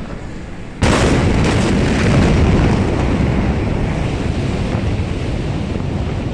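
Blast of the 2020 Beirut port explosion on a phone microphone: a sudden loud boom about a second in, then a sustained deep roar and rumble with the microphone overloaded and buffeted.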